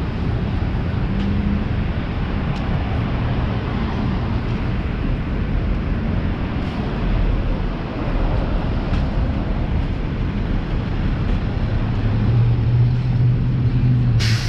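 Street traffic: cars running past with a steady low engine hum, which grows louder over the last couple of seconds as a vehicle comes close. A single sharp knock sounds just before the end.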